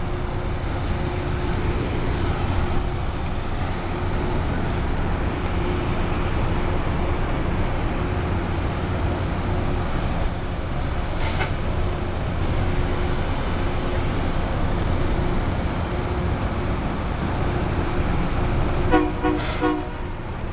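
Loram rail grinder running steadily with a low diesel rumble, a short sharp sound about halfway through, and its horn sounding briefly near the end, shortly before the machine starts moving.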